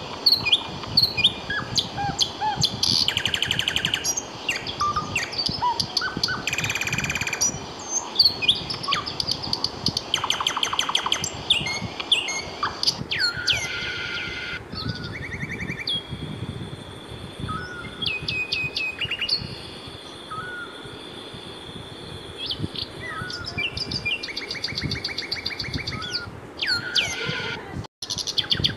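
Birdsong: several birds chirping, with fast trills and short whistled calls overlapping one another.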